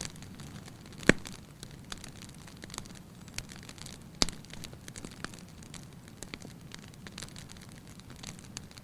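Wood fire crackling in a fireplace: irregular small crackles over a low steady rush of flame, with two sharper pops, the loudest about a second in and another about four seconds in.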